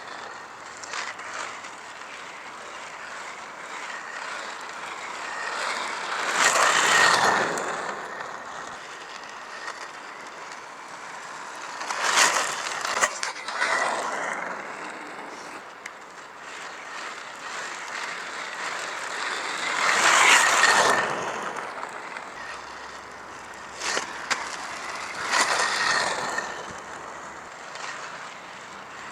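Inline skate wheels rolling during wizard-style freestyle skating, the rolling swelling loud and fading again about four times as the skater sweeps close past. A few sharp clicks and scrapes come in the middle and near the end.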